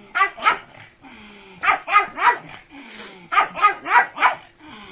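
A pug barking in quick runs: two barks, then three, then four, each run a little over a second apart.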